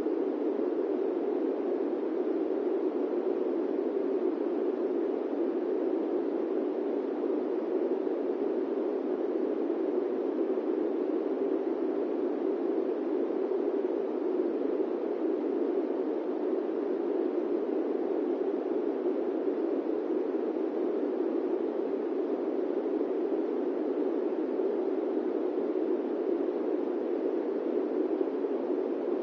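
Steady airplane-cabin white noise: an even, dull whoosh that does not change, with no deep rumble and little high hiss.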